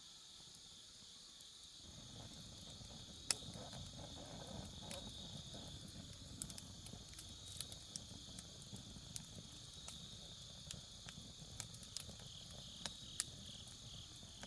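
A steady chorus of chirring insects in the background. About two seconds in, a low rushing sound sets in with scattered sharp pops and crackles, the sound of a wood campfire burning, with one louder pop a second later.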